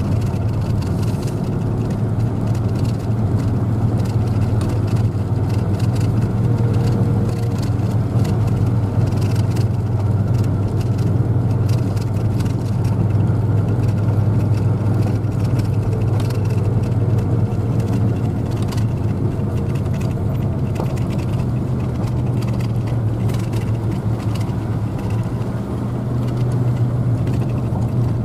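Vehicle driving steadily: a constant low engine drone with road noise.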